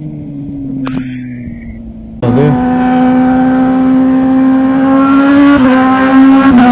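A motorcycle engine cuts in suddenly about two seconds in and runs loud at high, nearly steady revs, its pitch stepping up slightly twice near the end. Before it, a low fading tone and a brief swishing glide.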